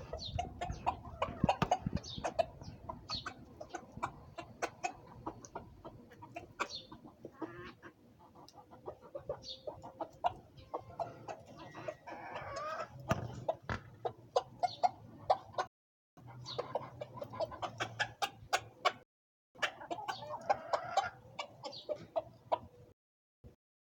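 Chickens clucking while feeding, among many sharp clicks and taps, with short high chirps mixed in. The sound cuts out to silence briefly a few times in the second half.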